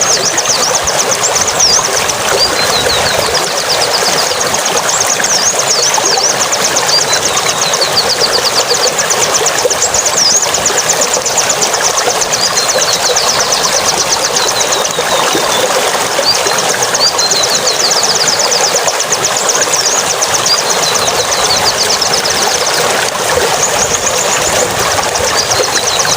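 Steady rush of running water with high, rapid bird twittering and trills over it that come and go.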